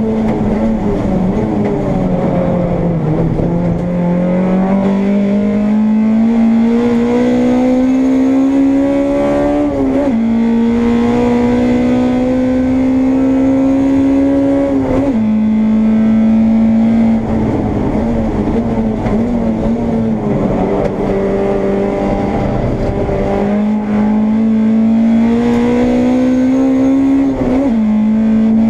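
Honda Integra race car's four-cylinder engine heard from inside the car, pulling hard through the gears: the pitch climbs in long sweeps and drops sharply at upshifts about 10, 15 and 27 seconds in, with falling pitch under braking near the start and again about two-thirds of the way through.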